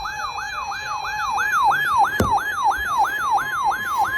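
Electronic siren-style alert tone: a yelp that sweeps up and falls back about three to four times a second over a steady lower tone, with one sharp click about two seconds in. It is a weather radio alarm sounding for a severe thunderstorm warning.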